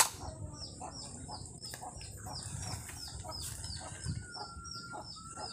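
Birds calling: a rapid run of short, high, falling chirps, about three to four a second, with lower clucking notes beneath them.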